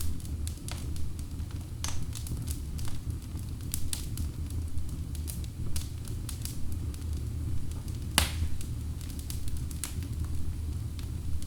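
Wood fire burning in a fireplace, with a steady low rumble of the flames and irregular sharp crackles and pops from the logs; the loudest pop comes a little after eight seconds in.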